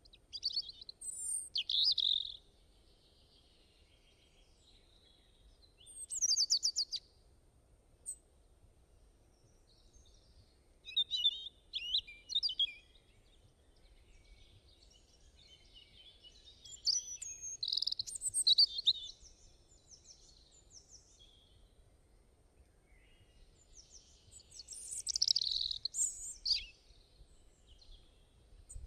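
Birdsong: five short bursts of chirps and trills a few seconds apart, with quiet gaps between, over a faint low background noise.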